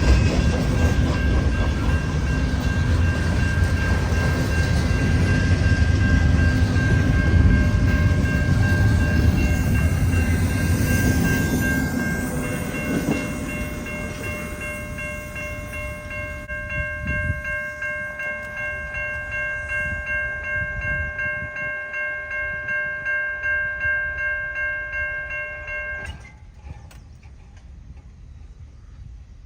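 Freight train rolling past, its wheels clattering over the rail joints. The heavy rumble fades over the second half into an even clacking. A steady high ringing tone runs under it and cuts off abruptly near the end.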